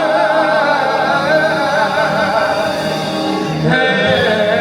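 Live gospel quartet singing: the lead holds a long note with heavy vibrato on the closing line "holding my... hand" over backing voices and music. The chord changes near the end.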